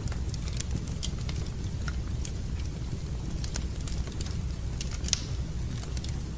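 Wood fire burning in a fireplace: irregular crackles and pops over a steady low rumble, with the sharpest pop about five seconds in.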